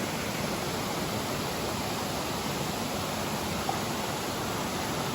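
Running water, a steady even rush like a stream or small waterfall.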